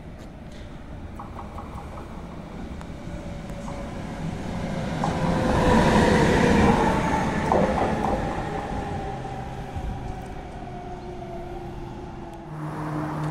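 Train hauled by a red DB electric locomotive passing through a station at speed. The rumble builds to its loudest about six seconds in, with a whine that drops in pitch as it goes by, then fades.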